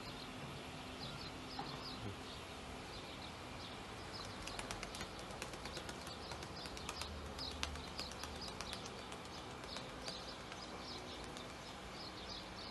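Faint outdoor ambience with small birds chirping in short, high calls repeated every fraction of a second. A scatter of sharp clicks comes in the middle.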